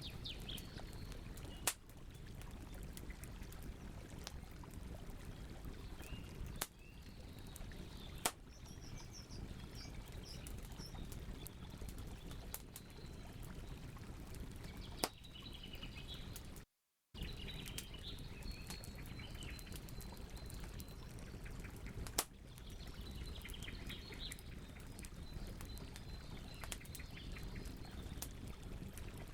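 Campfire burning with a steady crackle and a handful of sharp, scattered pops, while small birds chirp on and off in the background. The sound cuts out completely for a moment about halfway through.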